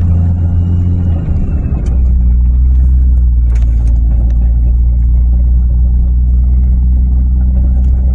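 Truck engine and road noise while driving: a steady, loud low drone. The engine note breaks and shifts briefly between one and two seconds in, then settles again.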